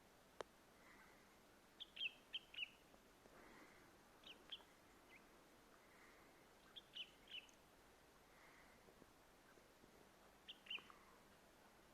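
A songbird giving short, high chirps in little clusters of two to four, every couple of seconds, over a quiet background. A single sharp click comes about half a second in.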